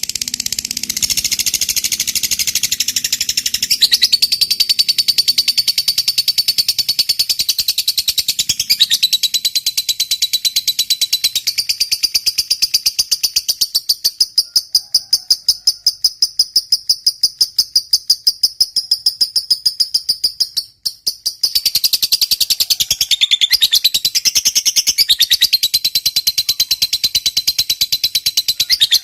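Fighter lovebird giving a long 'ngekek': a rapid, high-pitched chattering trill held for many seconds. It breaks off briefly about two-thirds of the way through, then starts again.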